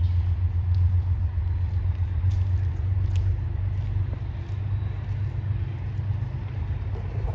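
Low, steady rumble of a passing train, with a slight dip about halfway through.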